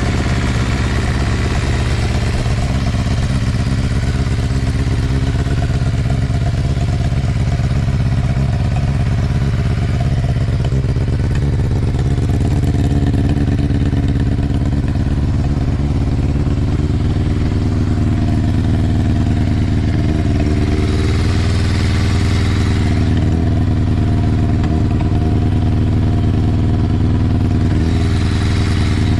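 Kawasaki ZRX400's inline-four running steadily through a Moriwaki ZERO titanium full exhaust. Engine speed edges up a little about two-thirds of the way through. The engine makes no abnormal noise, though it has a damaged ignition governor and ignition timing that is off.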